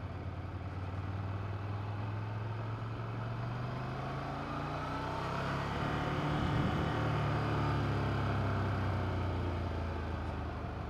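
Ducati 797's air-cooled L-twin engine running under way at low, steady speed, with wind and road noise. It picks up a little in the middle and then eases back.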